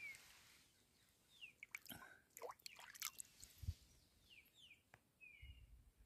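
Faint birdsong: short, high, falling chirps here and there, more of them in the second half. A few soft knocks and low thumps of footsteps on bare rock come through.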